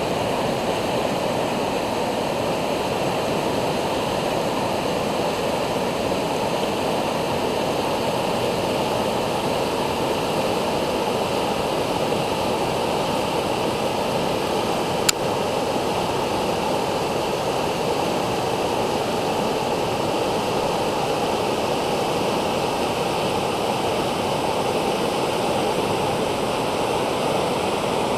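Steady, unbroken rush of river rapids and a waterfall after rain. A single sharp click cuts through once about halfway through.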